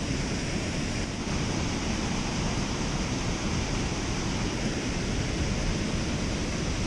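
Water rushing steadily through a dam spillway.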